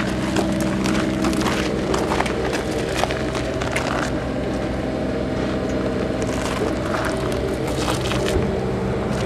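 A steady mechanical hum with scattered clicks and knocks over it.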